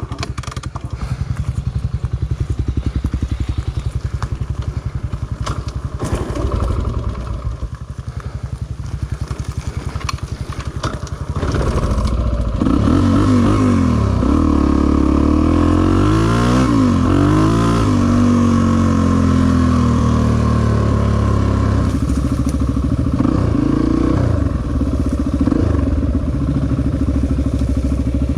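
Honda XR250 dirt bike's single-cylinder four-stroke engine running at low revs for about the first eleven seconds. It then gets louder as the bike is ridden off, its pitch rising and falling with the throttle and gear changes.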